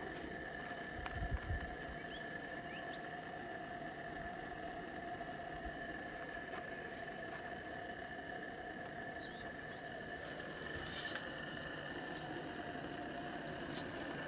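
Low knocks about a second in as passenger carriages are unhooked from a live-steam model locomotive, over a steady faint whine and hiss.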